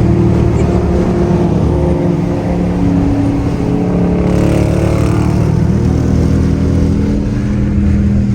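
Dodge HEMI V8 muscle car engine running loud under throttle, its exhaust note rising and falling in pitch several times.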